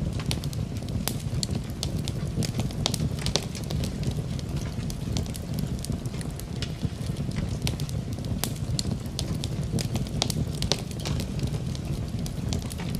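Wood fire crackling in a fireplace, with irregular sharp pops and snaps several times a second over a steady low rush, mixed with rain.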